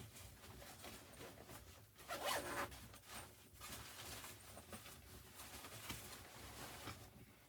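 A zipper being pulled in short rasping strokes; the longest and loudest stroke comes about two seconds in, with smaller ones after.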